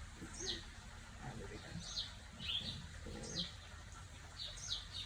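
A small bird chirping over and over: short, high notes that slide downward, coming every half second to a second, often in quick pairs.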